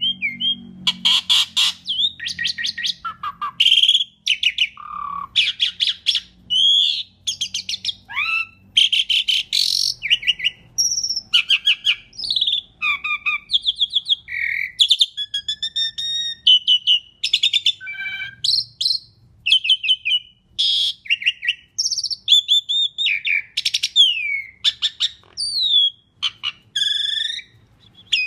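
Asian pied starling (jalak suren) singing a long, varied song, one phrase after another without pause. It mixes rapid chattering trills, gliding whistles and harsh squawk-like notes.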